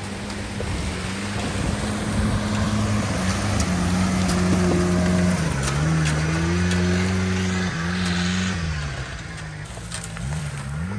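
Small mini truck engine running under load off-road, its revs rising and falling several times, with a steady hiss of tyres and ground noise underneath. The engine note is highest in the middle and drops lower near the end.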